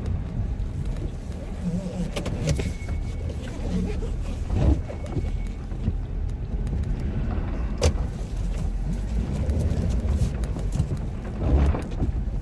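Ford F-250's 6.7-litre Powerstroke turbodiesel V8 running steadily while the plow truck manoeuvres, with a few sharp knocks scattered through.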